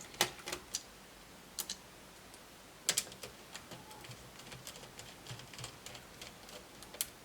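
Sparse light clicks and taps of a small screwdriver working on the screws that hold a laptop's speakers in its plastic base. A sharp double click about three seconds in is the loudest.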